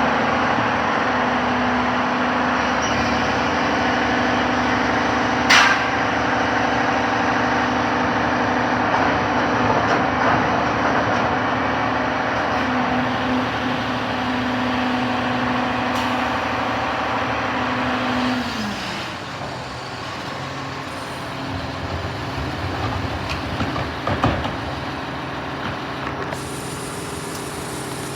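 Garbage truck running with its engine held at raised speed while the hydraulic lift empties an organics container, with a sharp metal bang about five seconds in. About eighteen seconds in the engine drops back to idle, and there is another bang a few seconds later.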